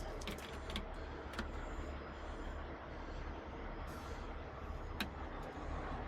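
Heavy rotator wrecker's diesel engine running steadily with a low rumble during winching, with a few sharp clicks and knocks, the loudest about five seconds in.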